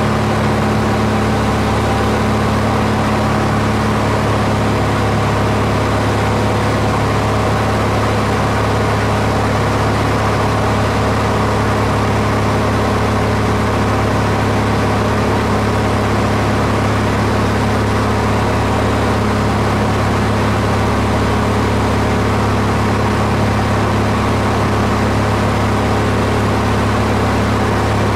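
Steady drone of an aircraft engine, an even hum with a low tone that holds without change.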